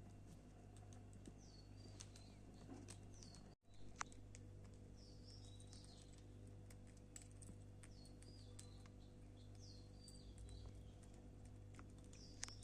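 Parrot chirping faintly: short high calls, each dropping in a step, repeated every second or two, with scattered light clicks and taps.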